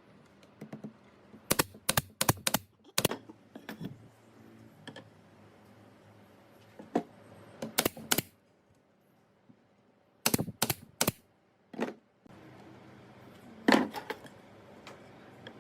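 Sharp knocks and clicks in irregular clusters of several quick strikes, with pauses between; the loudest comes near the end.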